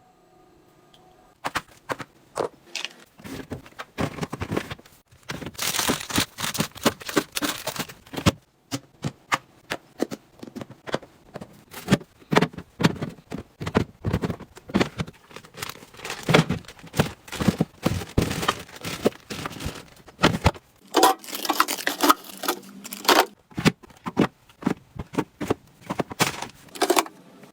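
Items being handled and set down by hand: an irregular run of clicks and taps, with stretches of rustling and crinkling packaging.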